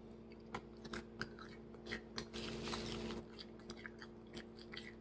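Close-miked chewing of crisp, burnt fried chicken: scattered crunchy crackles, with a denser crunching stretch a little past the middle. A steady low hum sits underneath.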